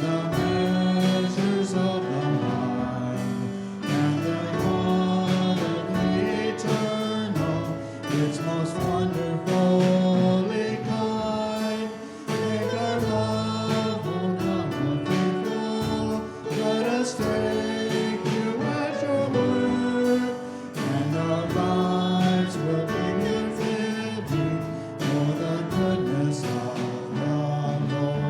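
A group of voices singing a hymn together with instrumental accompaniment, in long held notes.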